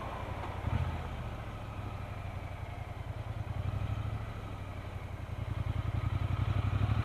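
Motorcycle engine running at low road speed with a steady pulsing beat, growing louder over the last couple of seconds.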